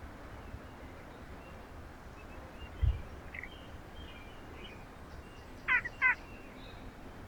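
Two short, loud bird calls in quick succession near the end, each a quick zigzag in pitch, over faint chirping and a steady outdoor hiss. A low thump comes about three seconds in.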